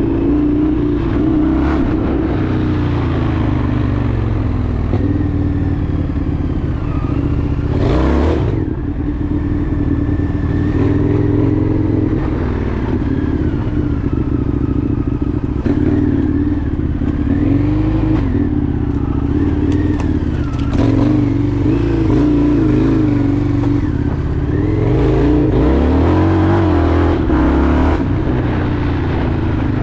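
Indian FTR 1200 V-twin motorcycle engine running under way, its pitch rising and falling with the throttle, with a brief louder burst about eight seconds in.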